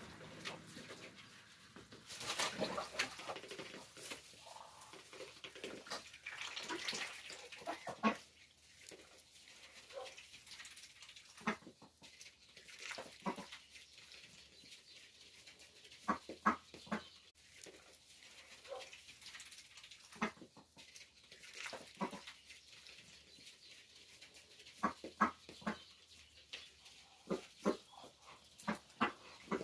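Intermittent animal calls mixed with short, sharp sounds, scattered irregularly and clustering about 16 seconds in and again in the last few seconds.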